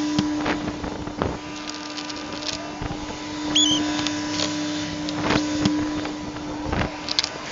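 Box truck running down the road, heard as a steady hum with a held tone, and a few sharp knocks and rattles scattered through it.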